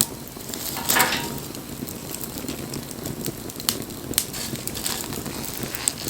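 Wood fire burning with a steady low rush of flames and scattered sharp pops and crackles. The loudest pop comes about a second in and is followed by a brief hiss.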